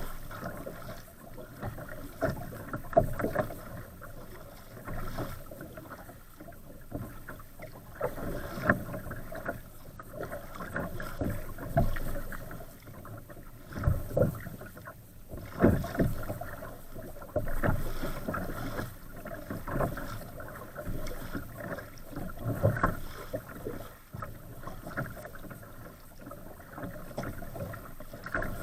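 Water sloshing and slapping against the hull of an Old Town Castine 140 kayak moving through wind-driven waves, in irregular surges every two to three seconds.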